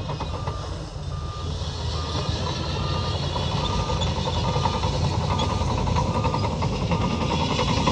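Reversing alarm on heavy machinery beeping at a steady pace, about once every 0.8 s, over a diesel engine running.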